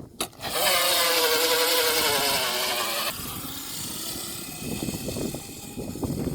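Hyper 350 kids' dirt bike motor whining steadily for about two and a half seconds in a burnout attempt, then breaking into a rougher, noisier rumble.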